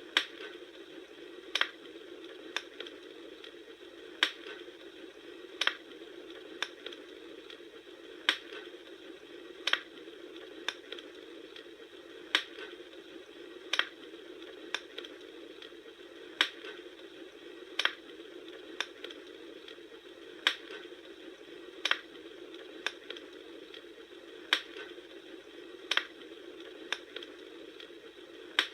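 Bonfire crackling: a steady hiss of burning with sharp pops about once a second, the pattern of pops repeating about every four seconds like a loop.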